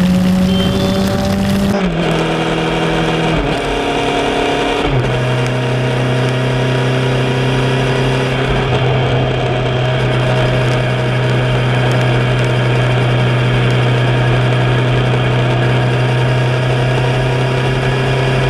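Kawasaki Z1000SX's inline-four engine under way: its note drops in steps about two, three and a half and five seconds in as it shifts up through the gears, then holds a steady cruising pitch, with wind and road noise underneath.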